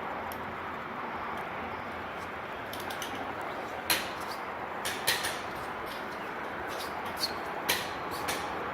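Steady background noise with a scattered series of short sharp clicks and taps.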